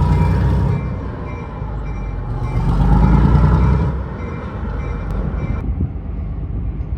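Train rumbling, a loud low rumble that swells twice, then thins out about five and a half seconds in.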